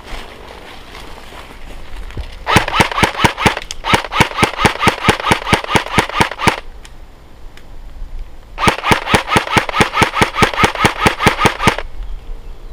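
Airsoft gun firing on full auto in two long bursts of about eight shots a second, each lasting three to four seconds, with a pause of about two seconds between them.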